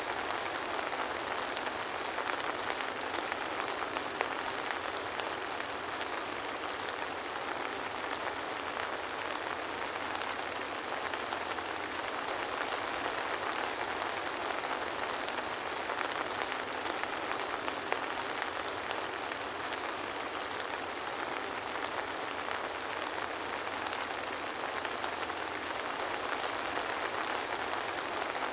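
Steady soft rain falling, a dense patter of drops with no thunder.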